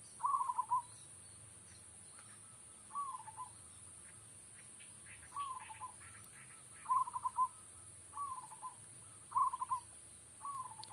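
Zebra dove (perkutut) cooing: a short rolling coo phrase repeated seven times, a second or two apart, with faint high chirps of other small birds in between.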